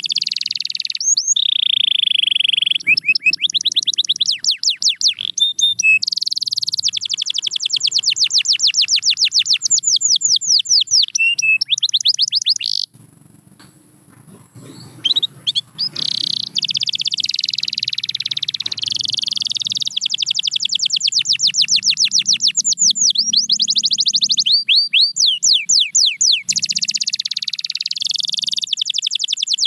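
Domestic canary singing: fast trills of rapidly repeated notes alternating with held, sweeping whistled phrases, broken by a pause of about two seconds near the middle.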